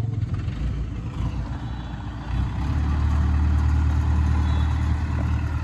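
A heavy vehicle's engine running. It grows louder and steadier about two and a half seconds in.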